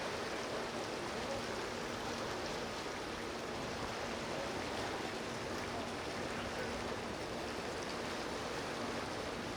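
Steady rushing noise of moving water and wind, with a faint steady low hum underneath.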